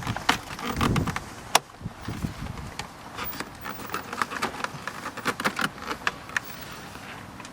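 Scattered irregular clicks and light knocks of hand work on a metal hose clamp and rubber intake hose at the throttle body, with a couple of dull thumps in the first second.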